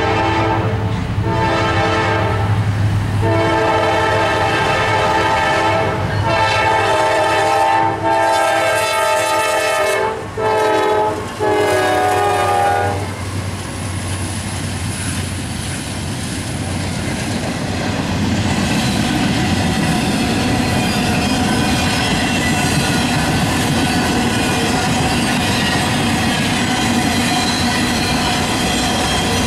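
Norfolk Southern diesel freight train sounding its multi-note air horn in several long blasts for a grade crossing, the horn stopping about 13 seconds in. The locomotives then rumble past, followed by the steady rolling clatter of intermodal cars on the rails.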